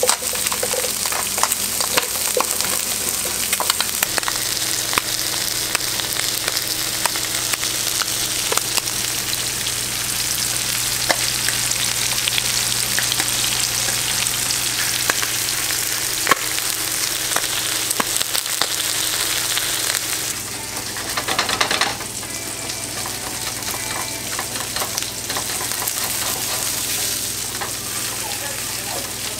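Surf perch fillets frying in oil and zucchini slices frying in butter, a steady sizzle with scattered small clicks and pops.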